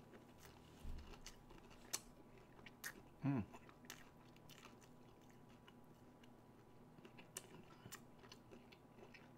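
A person chewing a chicken McNugget: faint, scattered wet mouth clicks and smacks, with a dull thump about a second in and a brief hum of the voice about three seconds in.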